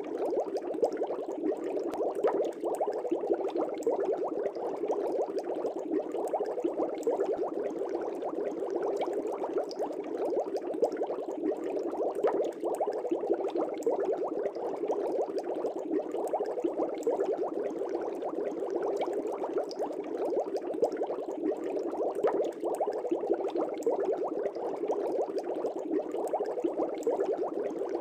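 Aquarium air bubbles rising and breaking at the water surface in a fish tank: a steady, dense bubbling with fine crackles that does not change.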